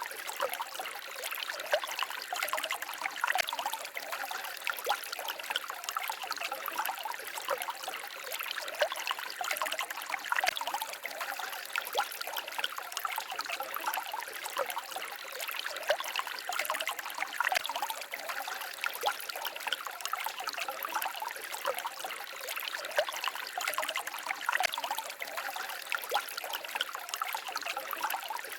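Shallow forest stream babbling and trickling over stones, a steady run of small splashes and gurgles.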